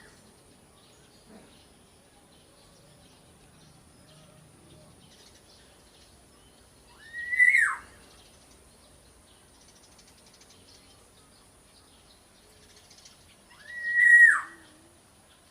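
Black-naped oriole (kepodang) giving a loud, single whistled call that rises and then falls, about a second long, twice, some seven seconds apart, with the end of another call at the very start.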